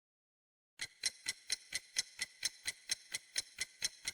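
Clock-ticking sound effect, used as a quiz timer: sharp, evenly spaced ticks, about four a second, starting just under a second in.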